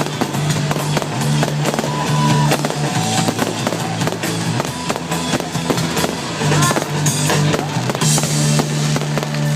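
Music with held bass notes playing over a fireworks display, with many sharp pops and crackles of bursting fireworks throughout.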